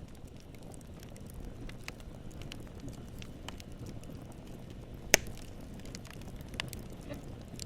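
Campfire burning, with a steady low rumble of flame and frequent small crackles of wood. One sharp, loud pop comes about five seconds in and a smaller one about a second and a half later.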